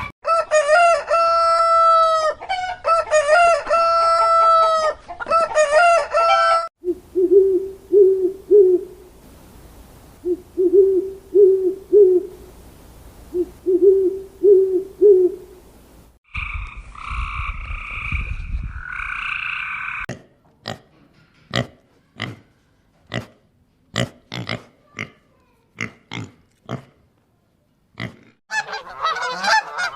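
A run of separate animal calls, mostly domestic fowl: three long pitched calls, then short low calls in groups of three or four, a harsh rasping call, a string of sharp taps, and busy honking near the end.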